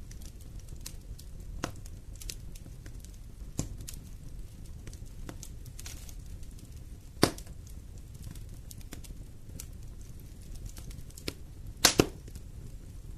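Wood fire burning in a fireplace: scattered crackles and sharp pops over a low steady rumble. A loud pop comes about seven seconds in, and a quick cluster of loud pops comes near the end.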